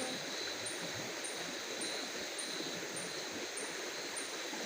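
Night insects chirping: a short, high chirp repeating evenly a little under twice a second over a steady high drone and a soft hiss.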